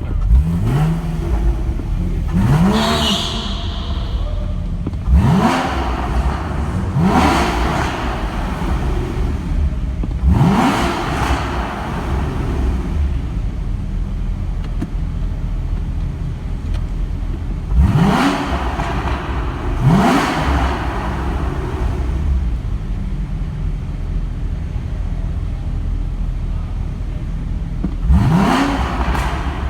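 Porsche with a sport exhaust idling and being blipped about eight times: each blip is a quick rising rev that falls straight back to idle. The blips come in clusters, with long stretches of plain idle between them.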